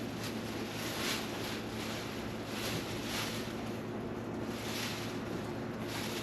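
Irregular swishing strokes of a wet cloth wiping a surface, over a steady low hum.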